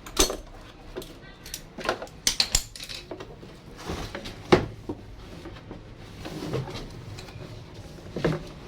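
Irregular clicks and clatter of small hard objects being handled, with a sharper knock about four and a half seconds in as the loudest.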